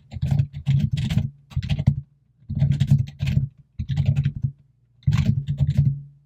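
Typing on a computer keyboard: quick runs of keystrokes in about five bursts, with short pauses between them.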